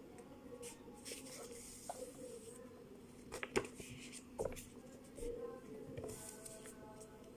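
Faint rustling and crinkling of a sheet of paper being handled and folded, with a few short taps about three and a half and four and a half seconds in, over a low steady hum.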